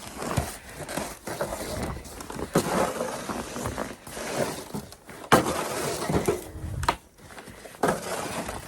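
Snow shovel scraping and scooping snow off a deck in irregular strokes, with crunching footsteps and a sharp knock about five seconds in.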